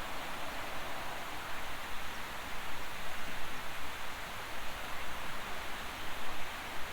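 Steady rushing noise that rises and falls a little in loudness, with no distinct events.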